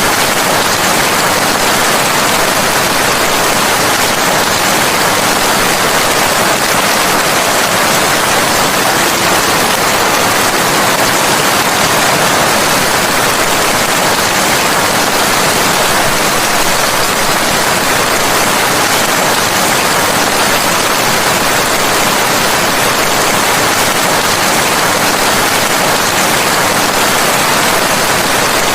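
Steady, unbroken rain noise, an even hiss with no separate drops or thunder standing out.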